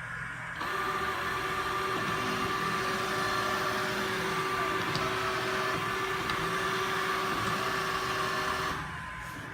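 Mamibot PreVac650 robot vacuum cleaner starting up in automatic cleaning mode: its suction fan and main brush motor run with a steady whirring hum, then stop shortly before the end.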